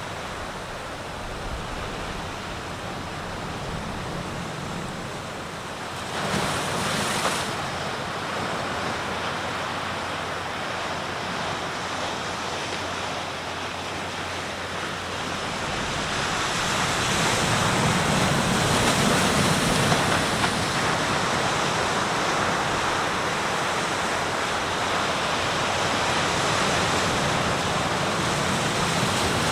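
Sea waves breaking and washing on the shore in a steady rush of surf. One wave breaks louder about six seconds in, and from about halfway the surf grows louder and stays up.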